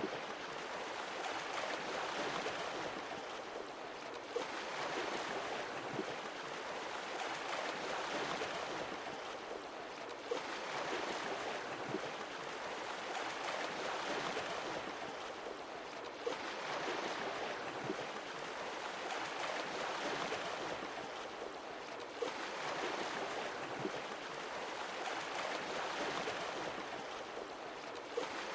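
Sea waves washing in and drawing back in a steady rhythm, one swell roughly every six seconds.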